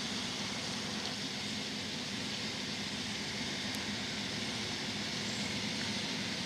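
GE diesel-electric freight locomotives working hard to lug a train uphill from a start, a steady drone with an even hiss over it.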